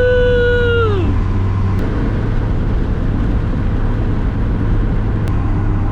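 Steady in-cabin engine and road rumble of a Mazda Miata driven on wet roads in the rain. A long shouted "woo!" fades out about a second in.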